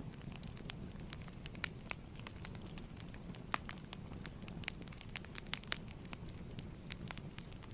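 Wood fire crackling in a fireplace: irregular sharp pops and snaps, several of them louder, over a steady low rumble.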